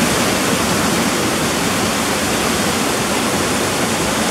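Waterfall's rushing water, a loud, steady roar of noise with no breaks.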